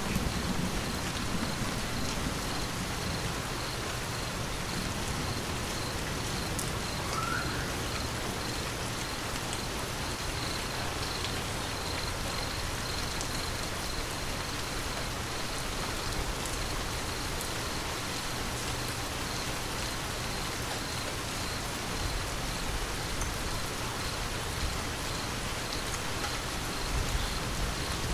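Steady rain falling, an even hiss of many drops with scattered faint drips. The tail of a low thunder rumble fades away in the first second.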